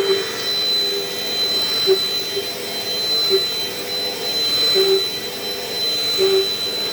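Dirt Devil Dynamite Plus upright vacuum cleaner running: a steady high whine over a hiss, with a lower tone coming and going every second or so.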